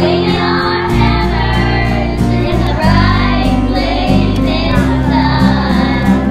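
A school children's choir singing in unison over an instrumental backing track, the voices mixed together from separate recordings as a virtual choir.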